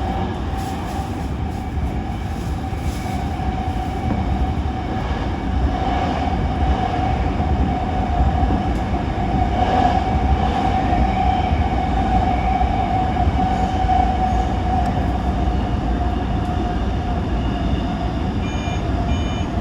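Toyo Rapid Railway 2000 series electric train running, heard from inside the train: a steady rumble of wheels on rail with a steady whine over it. Near the end, a short electronic chime sounds ahead of the onboard arrival announcement.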